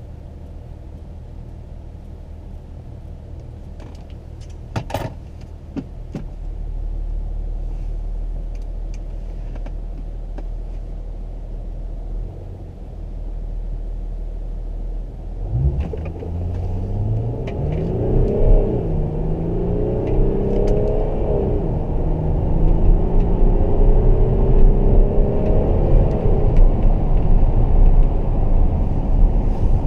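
Audi A6 3.0 TDI's V6 diesel engine ticking over with a low hum, then pulling hard under full throttle from about halfway through. The revs climb and drop back at each of several gear changes as the car accelerates, getting louder toward the end.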